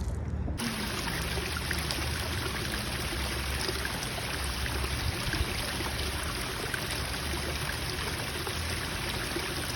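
Steady rush of running water, which starts suddenly about half a second in and goes on evenly.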